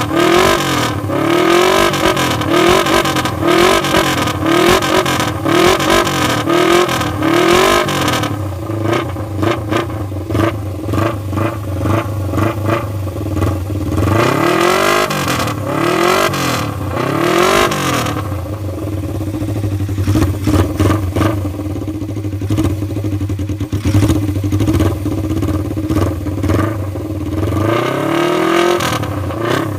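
Suzuki GSX250E's air-cooled parallel-twin engine on its exhaust before any muffler change, with the throttle blipped in quick rev swells about once a second. After about 8 seconds the revs grow irregular, a few more come around 14 to 17 seconds, then the engine idles steadily before one last rev near the end.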